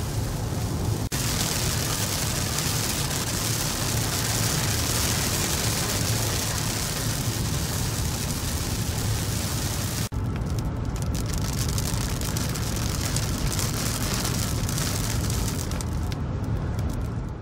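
A car driving on a wet road, heard from inside the cabin: a steady low road and engine rumble with tyre hiss. The hiss is stronger during the first half and drops off about ten seconds in.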